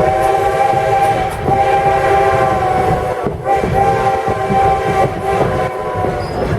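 Steam locomotive's chime whistle blowing three long blasts with short breaks between them, over the low rumble of the train rolling on the rails.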